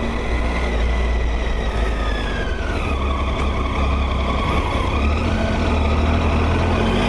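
Motorcycle riding, its engine running under heavy wind rumble on the rider's microphone. The engine note drops about three seconds in, then climbs again, as the bike slows and picks up speed.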